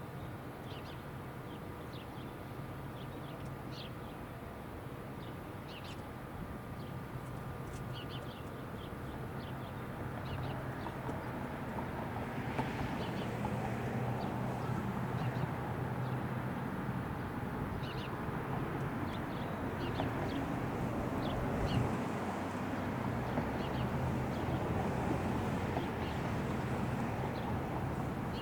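Short, high bird chirps come every second or two over a low, steady traffic rumble that grows louder about ten seconds in.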